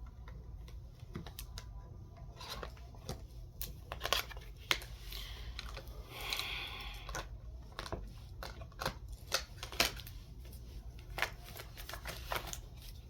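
Tarot cards being handled and shuffled: irregular sharp clicks and snaps of cards, with a brief rustle about six seconds in, over a steady low electrical hum.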